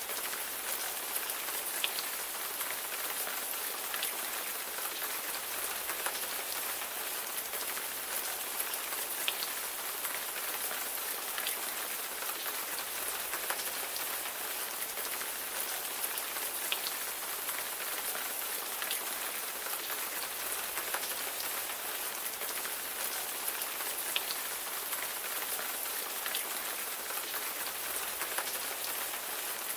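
Steady rain falling, an even hiss with scattered individual raindrop ticks.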